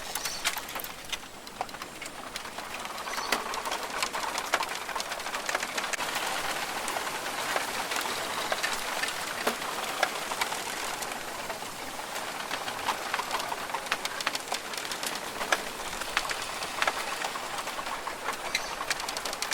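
Rainforest ambience: a steady, dense hiss with many sharp ticks scattered through it, growing louder a few seconds in, with birds calling.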